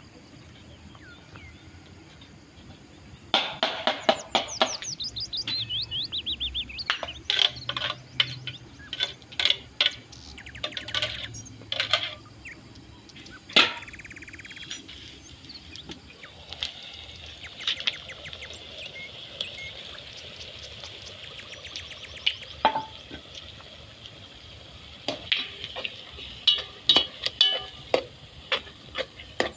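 Birds singing outdoors, with a fast falling trill of high notes about three seconds in, over irregular sharp clicks and knocks that come in two clusters.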